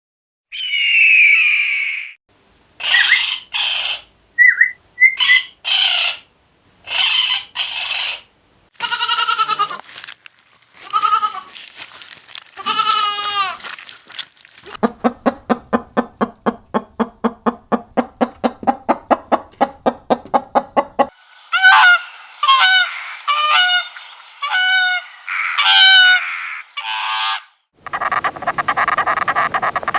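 A string of different animal and bird calls cut one after another, separated by short gaps. In the middle, a run of rapid, evenly spaced pulses lasts about six seconds.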